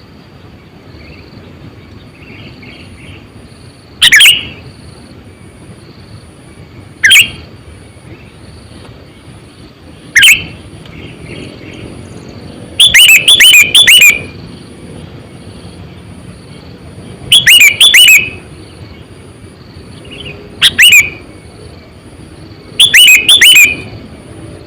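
Sooty-headed bulbul (kutilang) calling: loud, short bursts of gliding whistled notes every few seconds, some in quick runs of three or four notes. A faint steady high buzz runs underneath.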